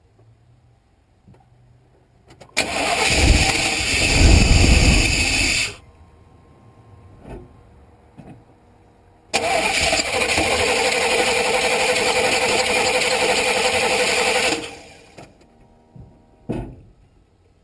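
1988 Chevrolet 2500 pickup's 5.7-litre TBI V8 being cranked on the starter twice, about three seconds and then about five seconds, each attempt stopping abruptly without the engine settling into a run. This is a no-start that the owner traced to a failed ignition (spark) module. A few short knocks fall between and after the attempts.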